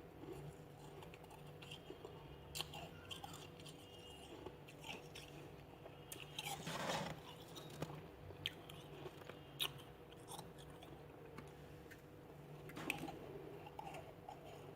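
A person biting and chewing freezer frost: faint, scattered crunches, with a louder crunch about seven seconds in and another near the end.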